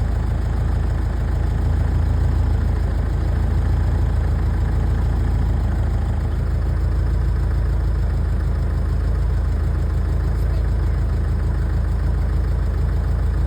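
An engine idling steadily: a low, even rumble that does not change.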